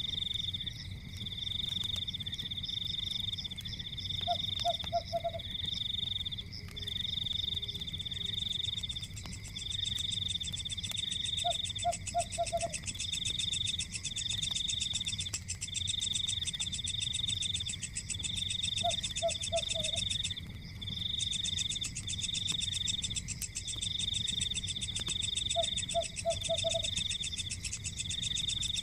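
Night nature ambience: a high, pulsing trill repeating about once a second, from frogs or insects calling. A short call of three or four quick low notes comes in about every seven seconds.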